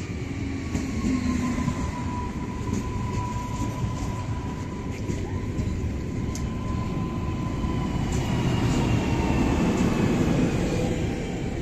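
Electric multiple-unit train at a station platform: a steady low rumble with a motor whine that slowly falls in pitch, growing louder about eight seconds in, with scattered light clicks.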